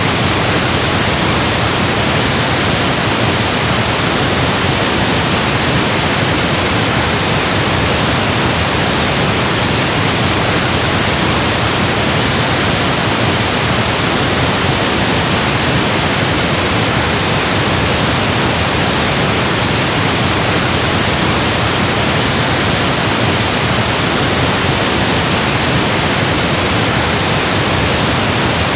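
Electronically generated pink noise: a steady, even hiss spread across all pitches, unchanging throughout.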